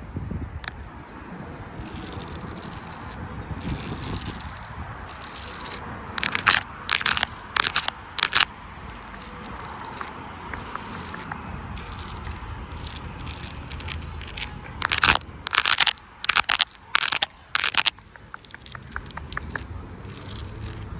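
Crackling and crunching in two clusters of sharp, irregular bursts, about six and fifteen seconds in, over a steady low outdoor hiss.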